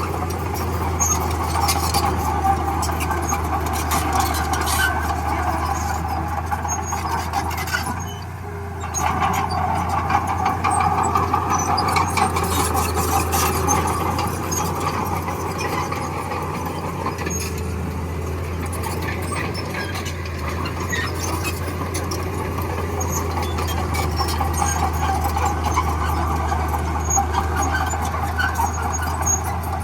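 Bulldozer at work: its diesel engine runs steadily with a low hum, and a higher mechanical grinding sound rides over it. Both dip briefly about eight seconds in, then carry on.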